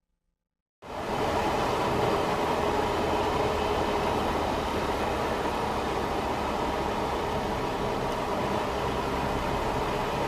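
Steady road and engine noise of a moving vehicle, starting abruptly about a second in after silence.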